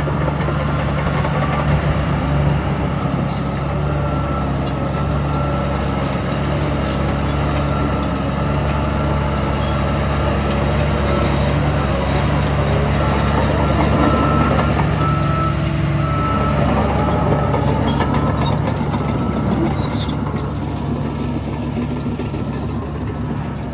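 Heavy diesel earthmoving machinery running steadily under load, with a steady high whine over the engine drone. It is a little louder about halfway through and eases off toward the end.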